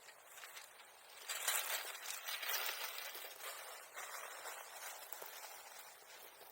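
Dry bamboo grass and brush rustling and crackling as it is handled, starting suddenly a little over a second in and going on in uneven bursts.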